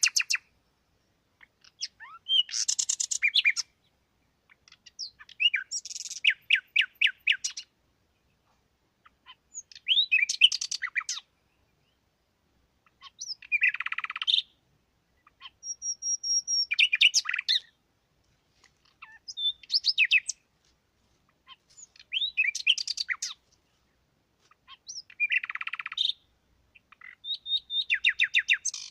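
Songbird singing: about nine short phrases of quick chirping notes, one every three seconds or so, with silence between phrases.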